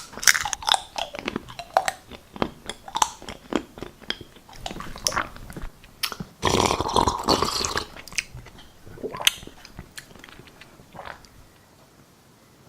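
Crunchy chips being bitten and chewed in rapid crackling crunches. The crunching is densest a little past the middle and dies away near the end.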